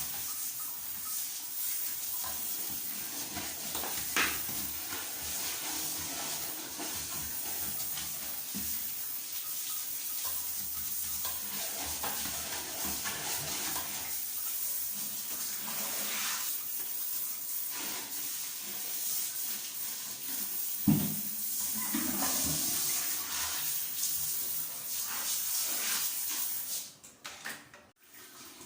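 Water running steadily during bathroom cleaning, with scattered knocks and clatter. It cuts off about 27 seconds in.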